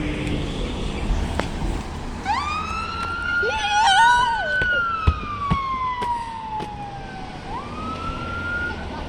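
Fire engine siren wailing: the tone sweeps up about two seconds in, holds, falls slowly over a few seconds, then sweeps up again near the end. A shorter wavering siren tone sounds over it for about a second, three and a half seconds in, above a steady background of traffic noise.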